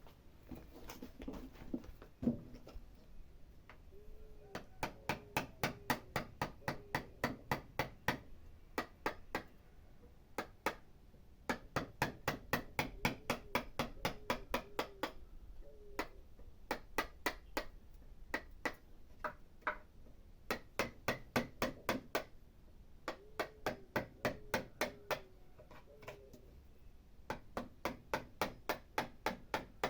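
A wood chisel struck with a hammer, cutting into a wooden stump by hand. The blows are sharp and even, about three a second, in runs of several seconds with short pauses between.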